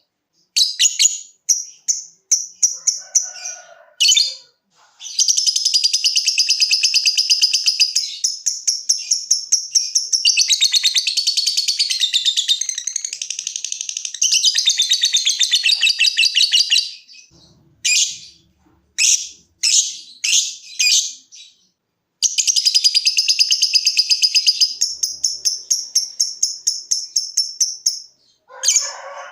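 Lovebird 'ngekek' song: long, rapid, high-pitched chattering trills, one running about twelve seconds and another about six, broken up by short separate chirps.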